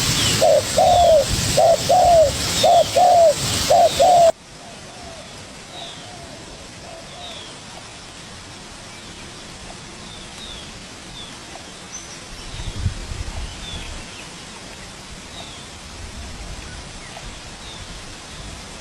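Spotted dove cooing close by in a quick run of repeated, arched notes. About four seconds in, the sound drops abruptly to faint cooing, with thin high chirps of small birds scattered throughout.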